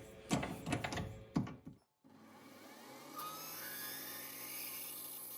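Clicks and knocks of metal tooling being handled, then, after an abrupt break about two seconds in, a lathe running steadily as a letter N drill cuts into the hub, with a high hiss.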